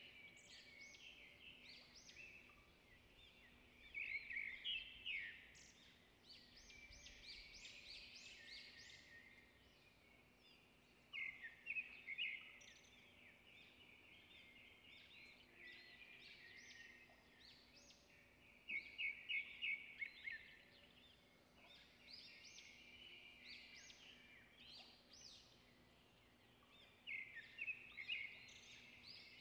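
Birds singing: quick trains of high chirping notes that come in louder bursts every several seconds, with softer twittering between them.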